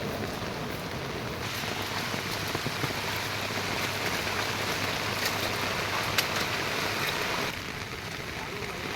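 Rain falling steadily, with a few sharp ticks of drops striking something. It gets louder about a second and a half in and drops back suddenly near the end.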